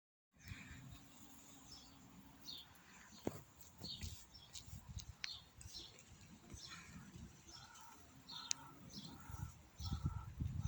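Faint bird chirps, short high calls scattered through, with a run of repeated shorter notes near the end, over a low rumble and a few sharp clicks.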